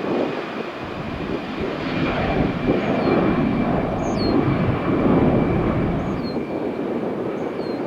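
Airbus A320-200 airliner taking off, its twin jet engines at takeoff power, with a dense, rumbling noise that swells and fades and a faint steady high whine over it.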